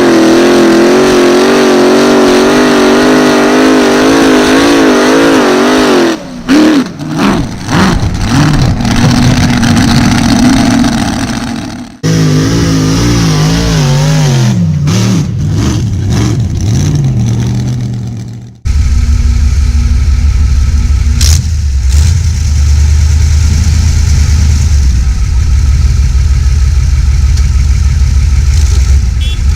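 Modified tractor-pulling engines running hard, in several short cuts. First a wavering engine note, then revs that fall away, then a steady deep engine note.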